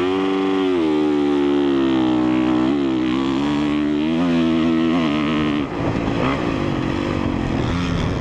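2017 Honda CRF450R's single-cylinder four-stroke motocross engine revving up sharply, then running at fairly steady revs with small rises and falls, and easing off about five and a half seconds in.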